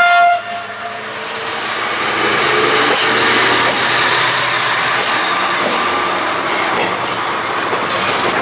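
A train horn gives one short, high blast, then a passing train's rolling noise builds over a couple of seconds and holds steady.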